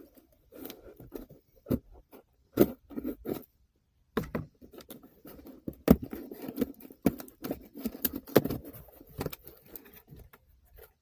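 A cardboard shipping box being opened and handled by hand: irregular rustling, scraping and tearing with sharp clicks and taps, pausing for a moment a little over a third of the way in.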